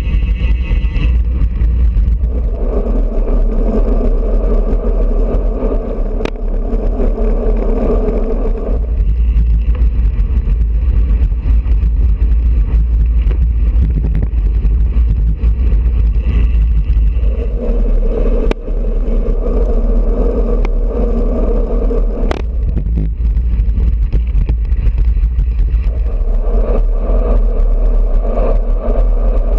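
Wind buffeting a bicycle-mounted GoPro's microphone while riding, a loud steady rumble. A droning hum swells in and fades out three times, and there are a couple of sharp clicks.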